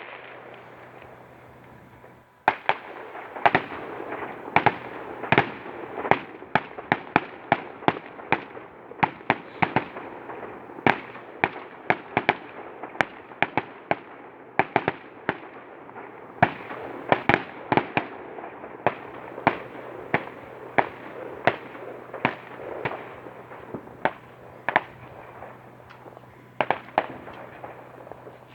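Fireworks display: a rapid run of sharp bangs, one to three a second, over continuous crackling, starting about two seconds in after a brief lull.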